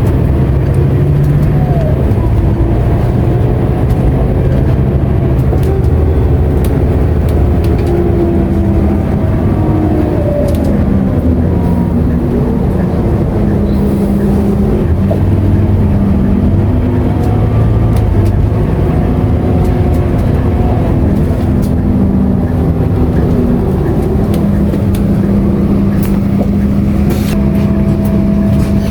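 Scania K230UB city bus heard from inside the cabin while driving, with its diesel engine pulling and the engine note stepping up and down repeatedly as the automatic gearbox shifts through the gears.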